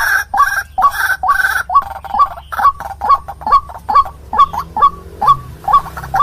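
White-breasted waterhen (ruak-ruak) calling: a fast run of harsh, repeated notes, each rising in pitch, about four a second. They are dense and overlapping at first, then thin to single, separate notes from about two seconds in.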